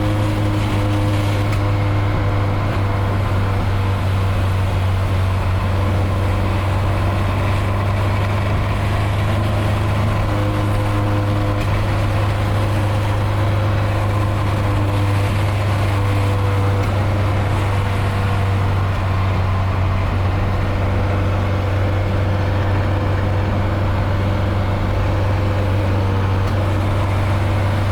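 Nissan 240SX engine and exhaust droning steadily at an even engine speed as the car cruises, with a deep constant hum and no revving. The exhaust has a hole blown in it, by the owner's account.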